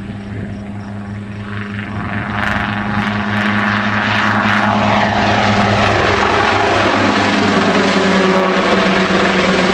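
Helicopter rotor and engine running, with a steady low pulsing hum. It grows louder over the first few seconds, as if the helicopter is coming closer, then holds steady.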